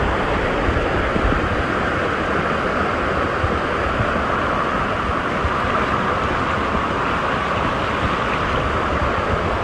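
Steady rush of floodwater, with wind buffeting the microphone in low, uneven rumbles.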